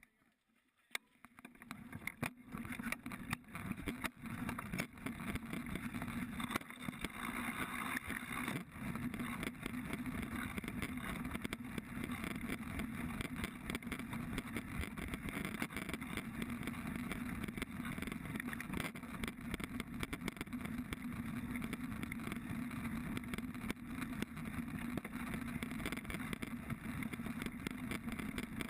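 Mountain bike being ridden on a dirt trail, heard through a mounted GoPro: a steady rumble of tyres, wind and rattling, with frequent small knocks, building up over the first couple of seconds as the ride gets going.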